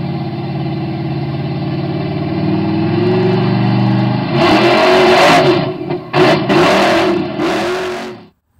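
Engine running steadily, then revved hard in several loud bursts from about halfway through, and cut off abruptly near the end.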